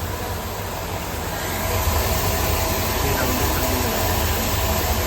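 Parts cleaner running after being switched on: a steady low hum with a hiss over it, getting a little louder about a second and a half in.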